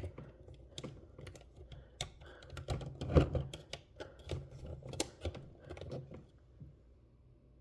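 Small hard-plastic toy refrigerator parts clicking and tapping as shelves and trays are fitted into place: irregular light clicks that stop about six seconds in.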